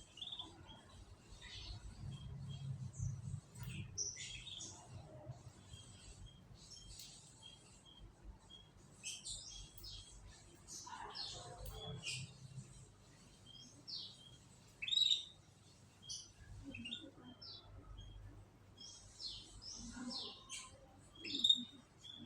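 Canaries chirping and twittering in many short, quick calls, with a few louder chirps standing out.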